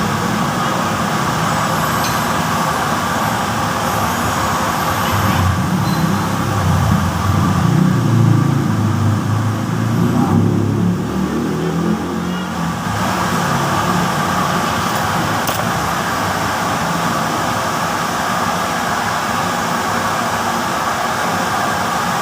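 Steady road traffic noise, swelling as a vehicle passes between about six and twelve seconds in.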